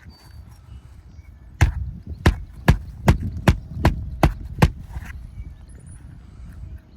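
Hammer driving roofing nails into an asphalt shingle: eight sharp, evenly spaced blows, about two and a half a second, starting about a second and a half in.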